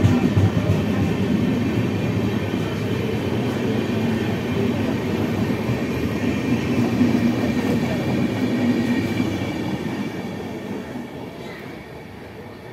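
Indian Railways express passenger coaches rolling past at speed: a steady rumble of wheels on rail that fades over the last couple of seconds as the rear coach goes by.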